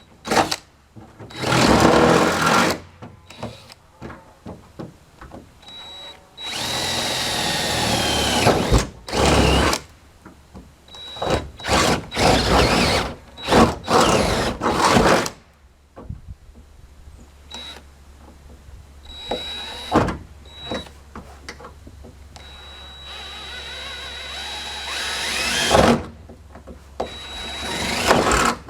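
Electric drill cutting through car-body sheet metal in repeated bursts of one to two seconds, with short pauses between.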